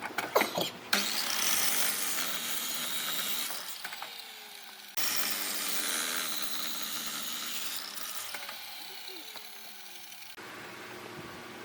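A power tool cutting wood, in two runs of loud hissing noise after a few sharp clicks. Each run tails off with a slowly falling whine, as the tool winds down.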